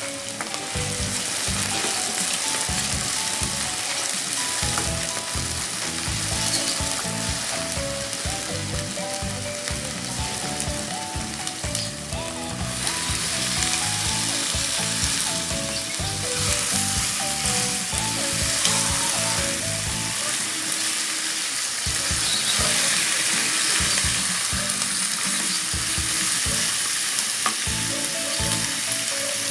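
Chopped onion, garlic and ginger sizzling in hot oil in a non-stick wok, then raw pork pieces frying in it and being stirred with a spatula; the sizzle thins for a few seconds around the middle. Background music plays underneath.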